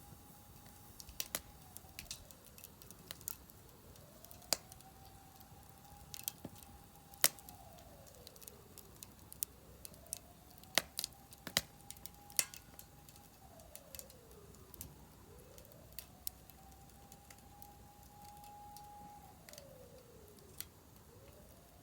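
Firewood crackling in a Solo Stove Campfire fire pit, with sharp pops scattered irregularly throughout. Behind it a siren wails, rising, holding and falling about every five and a half seconds.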